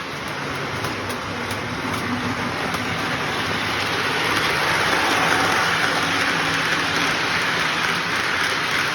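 Lionel Baltimore & Ohio Budd RDC model train running on its track, a steady rolling rumble of wheels and motor that grows louder about halfway through as the cars come near.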